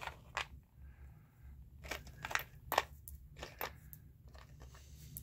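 Scattered light clicks and taps of small metal parts, screws and hinge pieces, being handled, over a faint low hum.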